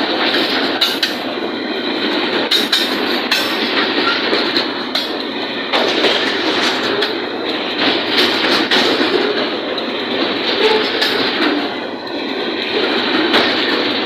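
Container train wagons rolling past, their wheels clattering steadily over the rail joints.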